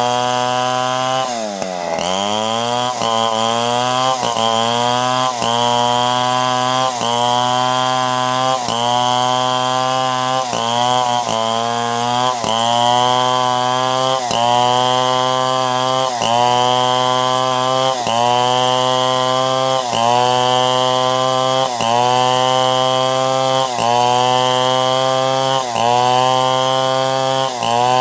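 Chainsaw running under load while ripping a log lengthwise into planks. Its engine note sags and picks back up about once every second or so, and bogs down deeply once about two seconds in.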